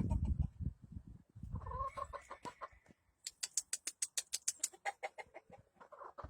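Chickens clucking: a short pitched call about a second and a half in, then a quick run of sharp clicks, about eight a second.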